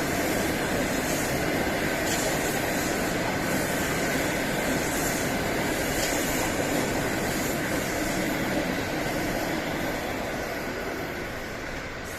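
A train running past on the rails: a steady rumble of wheels on track with faint repeated clacks, easing off near the end as it moves away.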